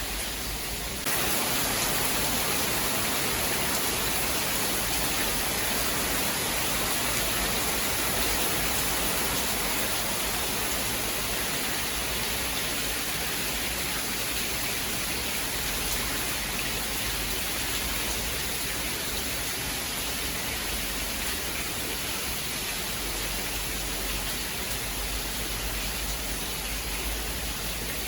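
Steady heavy rain, a dense even hiss with no thunderclap heard. It grows louder and brighter about a second in and eases back slightly just before the end.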